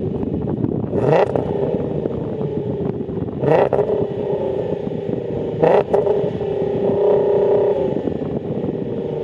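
3.6-litre VR6 engine running through a valved Varex exhaust, a steady exhaust note broken by three short sharp blasts about a second, three and a half seconds and six seconds in.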